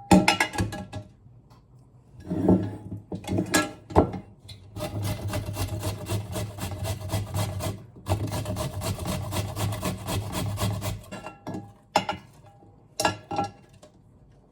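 A kitchen knife chopping quickly and evenly on a wooden cutting board for about six seconds in the middle. Scattered knocks and clinks of kitchen utensils come before and after.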